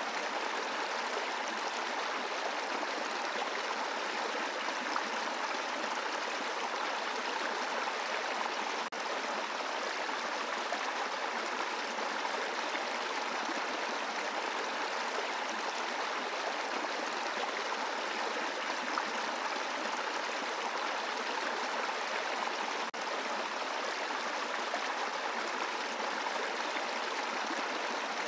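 Brook water running steadily over rocks, a continuous rushing babble, with two momentary drops in level about nine and twenty-three seconds in.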